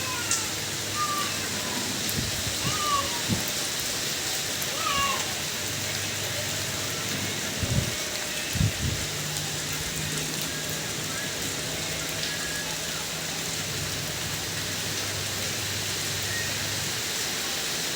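Steady rain falling, an even hiss throughout. In the first few seconds there are a few short, bending animal calls, and about eight seconds in there are two dull thuds.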